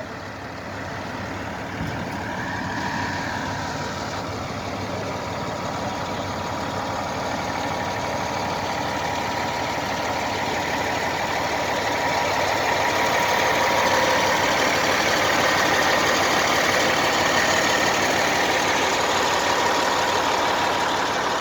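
An engine running steadily for the whole stretch, slowly growing louder toward the later part, with a faint steady whine through it.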